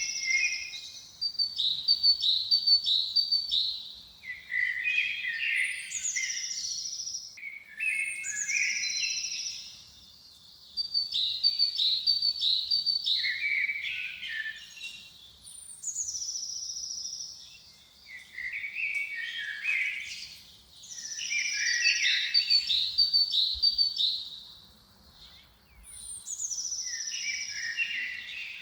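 A songbird singing the same phrase again and again, about eight times, with short pauses between. Each phrase opens with a high falling note, runs into a quick string of repeated notes and ends on lower notes.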